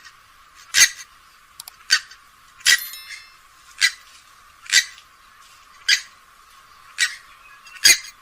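Grey-headed swamphen calling: a steady series of short, sharp calls, about one a second, eight in all.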